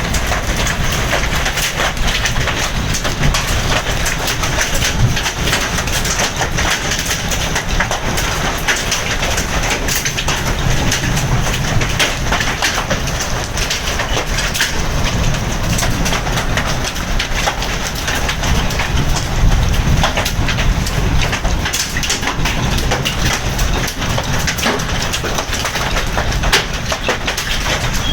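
Hailstones pelting down, a dense unbroken clatter of sharp ticks striking hard surfaces, over a steady low rumble.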